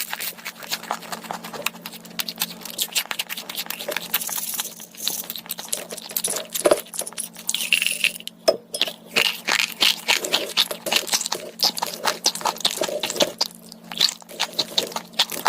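Close-miked eating: rapid, irregular crunching and crackling as food is bitten and chewed.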